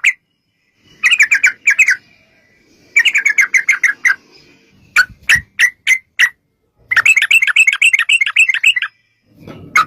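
Yellow-vented bulbul (trucukan) singing: loud bursts of quick, bubbling chirps in phrases of a second or so with short pauses. A run of single notes comes about five seconds in, then the longest fast rolling phrase, about two seconds, near the end.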